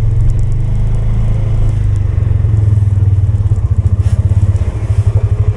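Polaris 570's single-cylinder engine running while plowing snow. A strong low drone turns into a clearly pulsing beat in the second half.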